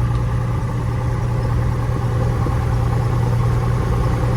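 Cessna 172F's six-cylinder Continental O-300 engine running smoothly at a steady low speed on the ground, heard from inside the cabin: a constant low drone that does not change.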